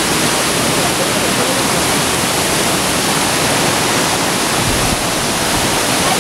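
Waterfall: water falling and splashing as a loud, steady rush of noise.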